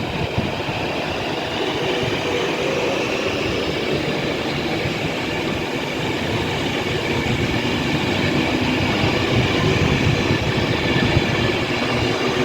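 Class 390 Pendolino electric train pulling away from the platform, its traction motors whining up in pitch as it gathers speed and the sound slowly builds.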